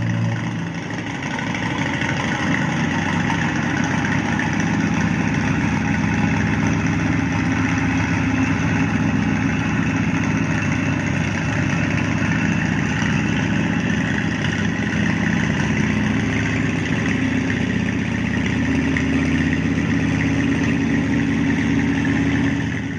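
Steady, dense aircraft engine drone, played as a sound effect, cutting off suddenly at the end.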